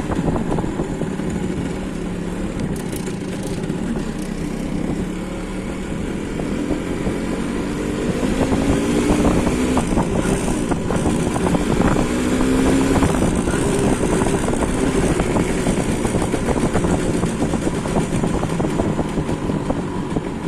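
MZ ETZ 150's single-cylinder two-stroke engine running, its pitch rising and falling a few times in the middle as it is revved.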